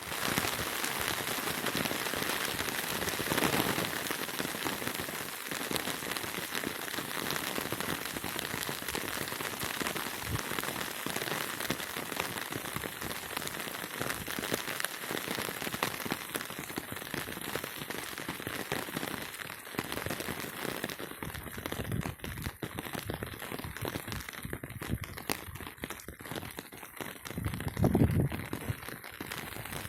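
Rain falling steadily, a dense patter of drops that eases somewhat in its upper part about halfway through. A louder low swell rises briefly near the start and again near the end.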